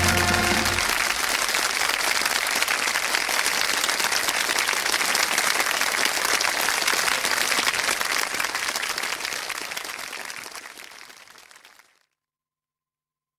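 Studio audience applauding, dying away gradually and fading out near the end. The tail of a music sting is heard at the very start.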